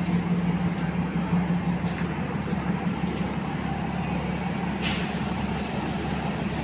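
Diesel railcar engine running with a steady low hum. A short hiss comes about five seconds in.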